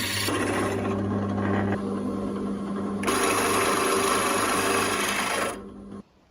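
Small electric power tool's motor running steadily, its sound changing twice as the work is applied, then cutting off suddenly near the end.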